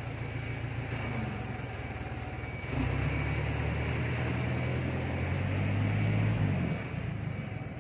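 Electric motor of a Kira drilling machine switched on about three seconds in, running with a steady low hum, then switched off near the end.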